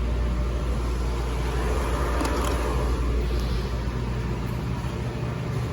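HVAC unit running steadily just after starting up: a low hum and rumble under a broad rushing noise, with the deepest hum easing somewhat near the end.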